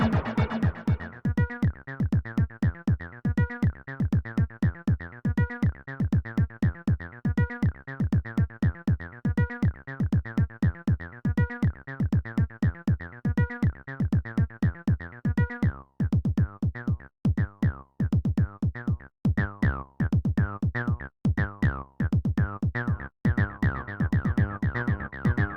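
Electronic jam from a Roland T-8 beat machine: a steady, evenly spaced drum-machine pattern over a synth bass line. About two-thirds of the way in, the beat breaks up into stuttering hits with short dropouts, then the fuller groove returns near the end.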